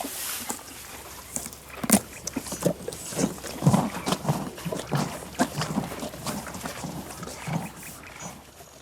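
An animal making a run of short, irregular snorts and grunts.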